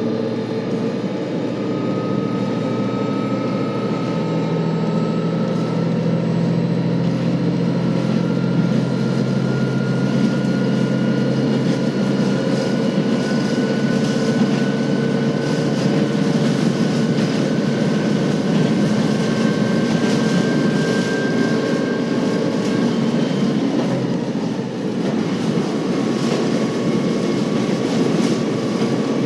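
KiHa 40 series diesel railcar under way: the diesel engine's note climbs slowly and steadily as the train gathers speed, mixed with the rumble of the wheels on the rails. About 25 s in the sound dips briefly and the engine tone drops to a lower pitch.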